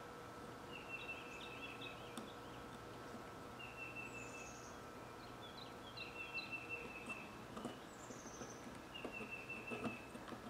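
Faint songbird singing: short trilled phrases repeated every second or two, over a steady low electrical hum, with a few small clicks in the second half.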